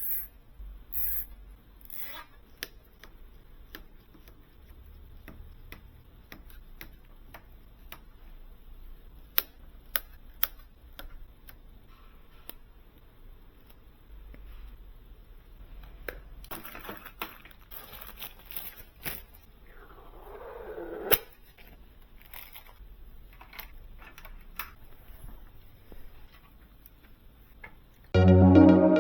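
Scattered sharp clicks and light knocks of hardware being handled during a PC build, with a short scraping swell about twenty seconds in. Electronic music starts near the end.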